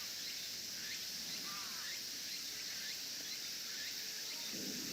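Birds chirping in short, repeated calls over a steady high hiss of outdoor ambience; a low rustling starts near the end.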